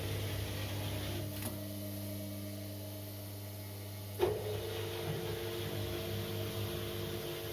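Korting KWM 47B1060 washing machine running in its spin stage at low drum speed, its motor giving a steady hum made of several tones. A sharp click comes about four seconds in, after which the hum's pitch shifts slightly.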